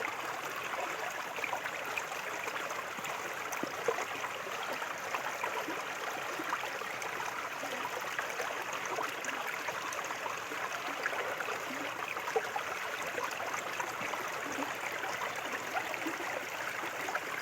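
Small river flowing steadily, a continuous rushing and babbling of water over stones.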